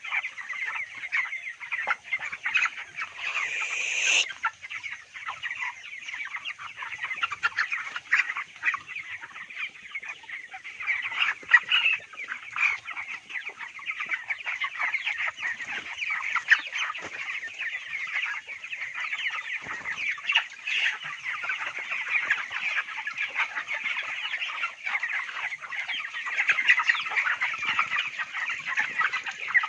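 A flock of 26-day-old broiler chickens calling continuously, many short overlapping chirps and clucks at once, over a faint steady high hiss.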